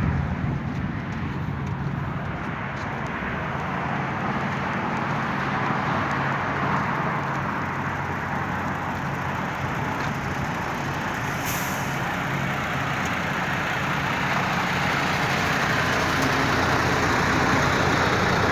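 Truck under way: a steady low engine hum under a constant rush of road noise, holding even without gear changes or stops.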